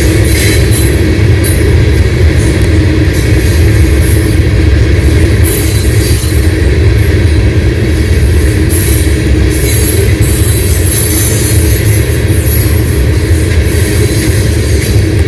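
Freight train of tank cars rolling past, a loud steady rumble of steel wheels on the rails with scattered higher hiss and clatter.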